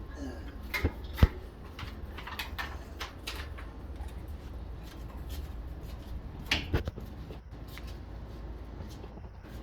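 Scattered rustling and small clicks over a low rumble, with two sharp knocks, one about a second in and one near seven seconds in.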